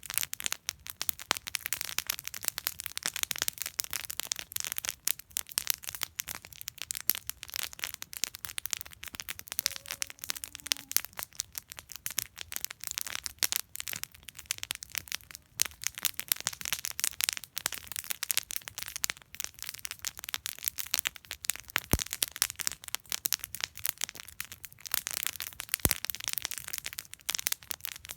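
Wood campfire burning steadily, with dense crackling and snapping pops.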